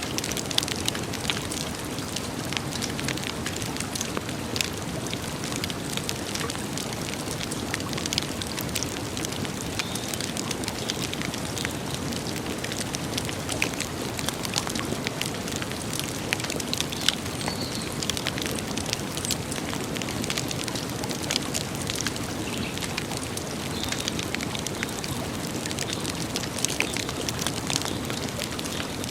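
Campfire burning, with a steady rush and many sharp, irregular crackles and pops from the burning wood.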